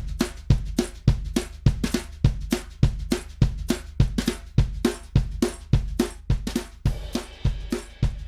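Recorded drum kit playing a steady groove of bass drum, snare and hi-hat, a drum bus run through a Millennia Twin Topology tube and solid-state compressor and EQ plugin. A cymbal rings out near the end.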